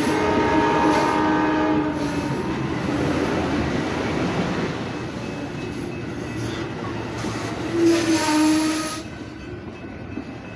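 Amtrak passenger train passing, its Nathan K5LA five-chime air horn sounding for about the first two seconds and again briefly near the eight-second mark. In between and after, there is the rumble of the train's wheels and cars, fading near the end.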